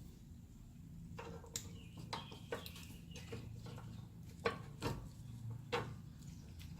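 A string of metallic clinks and clicks as brake parts and tools are handled while pads and caliper hardware are fitted back on a car's rear brake. The clinks are irregular, some ringing briefly, and the sharpest comes about four and a half seconds in, over a steady low hum.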